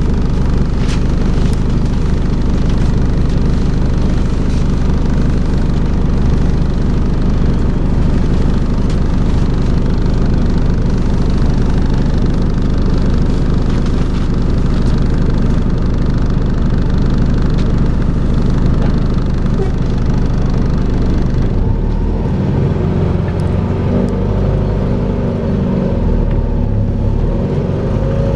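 Volvo B5LH hybrid double-decker bus running with a steady vacuum-cleaner-like drone, the 'hoovering' noise. About 21 seconds in the sound changes: the steady drone gives way to shifting, wavering tones.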